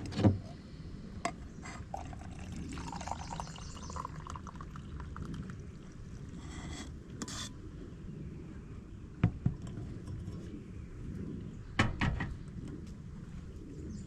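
Liquid being poured into a cup, with a few sharp knocks and clinks, the loudest near the end.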